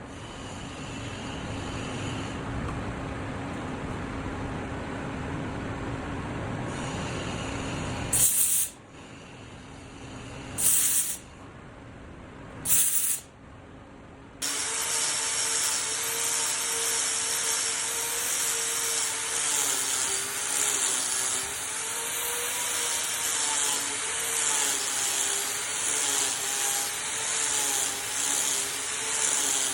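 Power tools working wood: about eight seconds of rough cutting noise, then three short loud bursts, then from about halfway a steady hissing cut over a motor tone whose pitch wobbles slightly.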